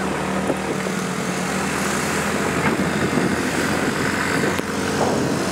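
Small motorbike engine running steadily at cruising speed, with a continuous hiss of wind and road noise.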